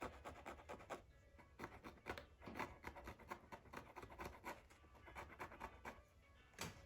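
Faint, quick scratching and rubbing strokes on Torah parchment, several a second, with a short lull about a second in.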